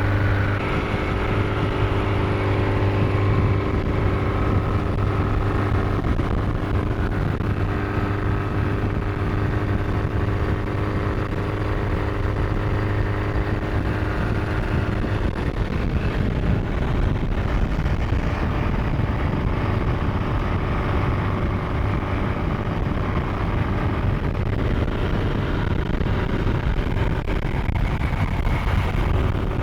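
The MG TA Special's supercharged 1328 cc XPAG four-cylinder engine running steadily at a constant pace, under broad road and wind noise. About halfway through, the clear engine note gives way to a more even rumble.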